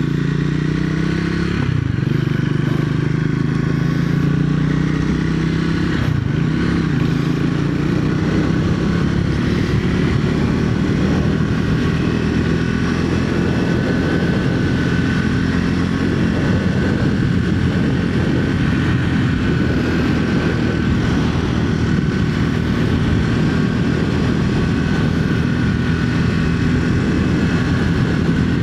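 Triumph Speed 400's single-cylinder engine under way, its pitch climbing and then dropping twice in the first six seconds as the bike accelerates through upshifts, then running steadily at cruising speed with wind and road noise.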